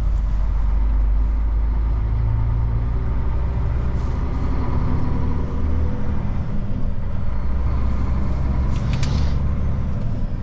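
Old Mercedes truck's diesel engine running steadily with a deep low rumble while driving. A short hiss sounds near the end.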